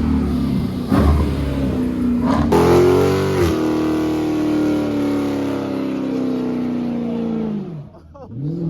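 Car engine revving: a few quick blips of throttle, then about two and a half seconds in it jumps higher and slowly winds down before dropping away near the end.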